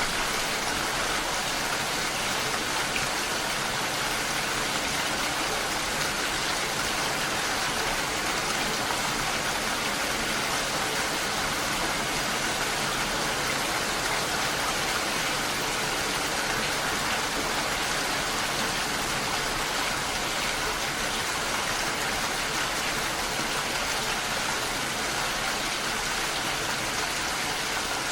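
Steady rain falling, a constant even hiss of many drops with no thunder or distinct impacts.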